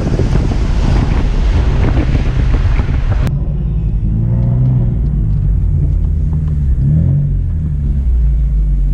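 Inside the cabin of a 780 whp tuned BMW M4: wind and road noise rushing while driving at speed, then an abrupt edit cut about three seconds in to the car's twin-turbo straight-six running at low revs, with a couple of short blips up and back in pitch.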